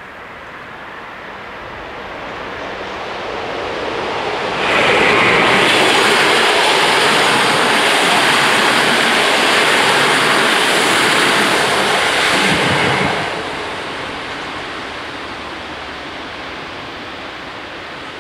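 Polregio regional passenger train approaching and passing over a level crossing: a steadily rising rumble, then loud, even wheel-on-rail noise that starts abruptly about five seconds in and holds for about eight seconds before dropping off and fading as the train moves away.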